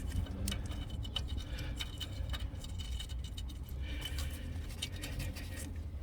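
Scattered light metallic clicks and clinks of E-Torx sockets being handled from a socket set, over a steady low rumble.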